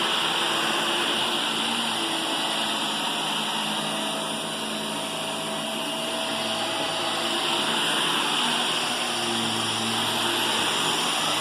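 Vacuum cleaner running steadily, with a constant high whine over its airflow noise; it dips slightly in level around the middle.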